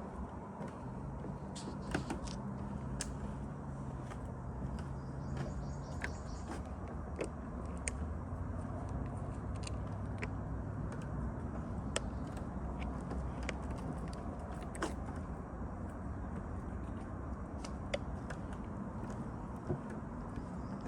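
A steady low engine drone with a faint hum, from a motor vehicle or aircraft some way off, with scattered light clicks.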